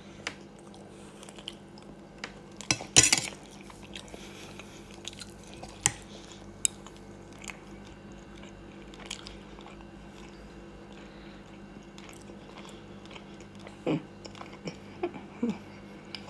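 A person eating: quiet chewing with scattered clicks and taps of cutlery on a plate, a louder clatter about three seconds in, over a faint steady hum.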